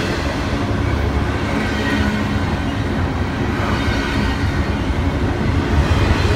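Norfolk Southern double-stack intermodal freight cars passing close by: the steady running noise of steel wheels on the rails and the moving cars.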